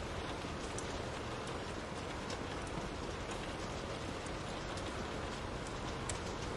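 Steady rain, an even wash of falling water dotted with scattered faint sharp ticks.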